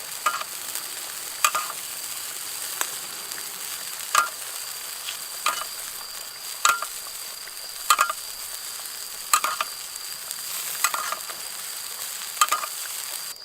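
Fish sizzling steadily in a pot over a campfire, while a spoon scoops from the pot and clinks against it about ten times at an even pace, roughly once every second and a half.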